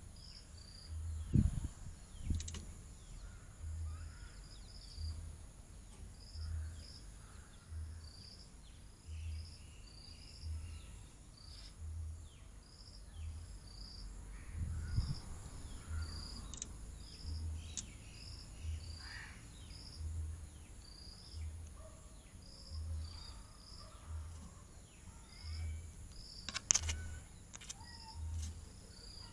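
Outdoor bird ambience: a short, high double chirp repeats about once a second throughout, over a regular low throb, with scattered other bird calls and a sharp louder call near the end.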